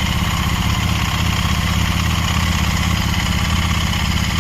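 Fuel-injected motorcycle engine running at a steady fast idle just after a cold start in winter. The raised RPM comes from the fuel injection's automatic cold-start enrichment, an automatic choke that is absolutely normal and settles within about 30 seconds to a minute.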